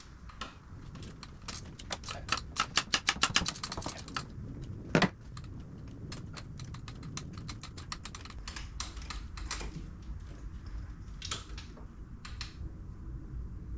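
Socket ratchet clicking as a spark plug is loosened, with a quick even run of clicks about two to four seconds in and scattered clicks after. A single sharp metallic knock about five seconds in.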